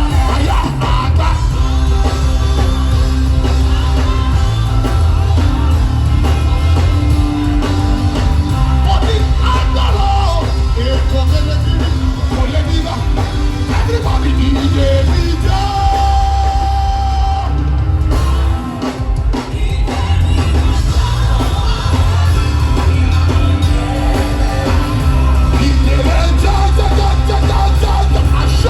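Live worship music played loud through a PA, with a heavy bass line, sustained chords and voices singing and shouting over it. The band drops back briefly about two-thirds of the way through before coming back in full.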